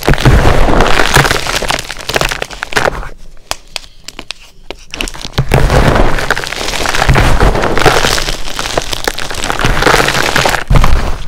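SPRI gym chalk blocks being crushed: dense, crunchy crackling with many sharp snaps. It eases into a quieter gap of about two seconds near the middle, then resumes.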